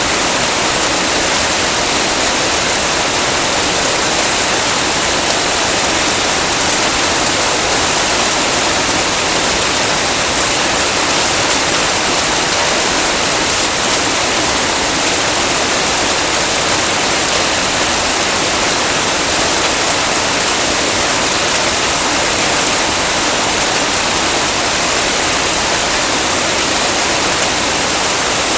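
Heavy rain falling, an even, steady hiss with no separate drops, thunder or breaks standing out.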